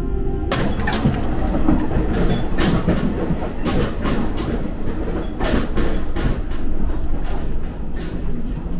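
Umisachi Yamasachi diesel tourist railcar running along the line, heard inside the passenger car: a steady rumble with irregular clacks as the wheels pass over rail joints.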